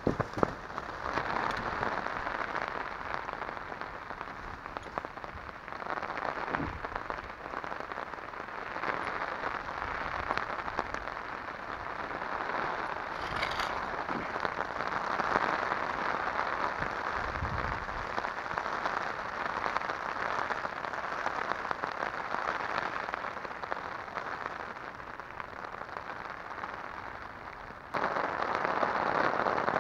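Steady rain falling as an even hiss, growing abruptly louder near the end.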